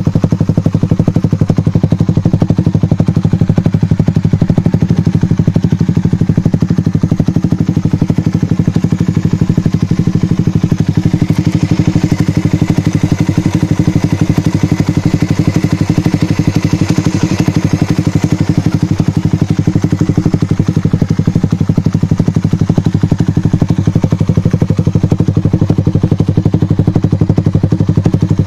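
Suzuki Satria FU fuel-injected motorcycle's single-cylinder four-stroke engine idling steadily and loudly through a Nobi Titan aftermarket exhaust with its DB killer (baffle) removed.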